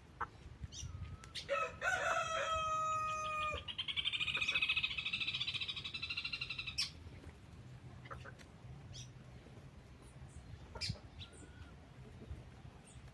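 Rooster crowing once, a long call that starts about a second and a half in, holds steady, then turns into a quavering higher part before cutting off about seven seconds in. Short chirps and clicks from other birds follow.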